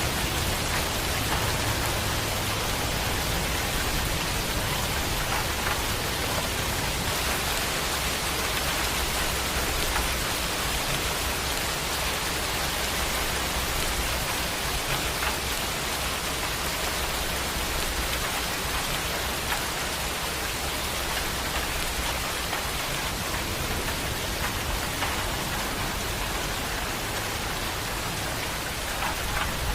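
Steady, dense rainfall pattering on surfaces. A low rumble of distant thunder runs under it through roughly the first half and fades out.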